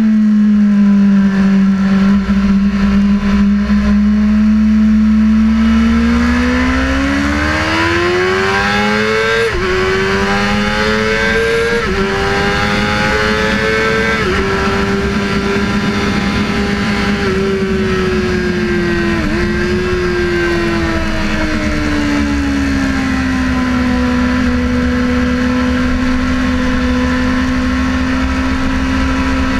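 Sportbike engine at speed on track: it holds steady, then climbs in pitch for several seconds with brief dips as the rider shifts gears, eases back down and holds steady again. Low wind rumble sits underneath.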